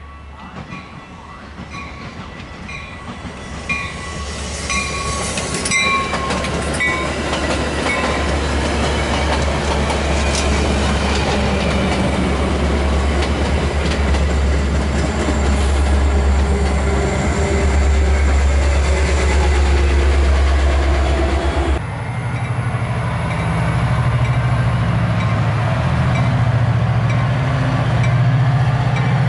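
A Metra bilevel commuter train passes close by, its wheels clicking over the rail joints and its diesel locomotive's low engine drone swelling as it goes by. In the first few seconds a high ringing repeats about twice a second. About 22 s in the sound cuts abruptly to a different steady diesel locomotive engine hum.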